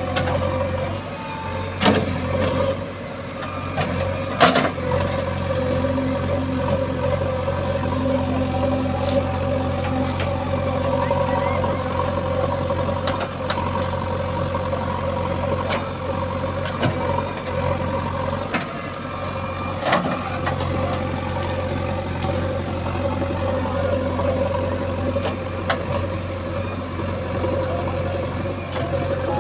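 JCB 3DX backhoe loader's diesel engine running steadily, with a few sharp knocks, two in the first five seconds and one about two-thirds of the way through.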